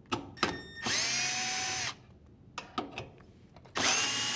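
Cordless drill driver with a 5/16 nut driver bit backing out two screws, one after the other. A few clicks come first, then two runs of about a second each, each spinning up quickly to a steady whine.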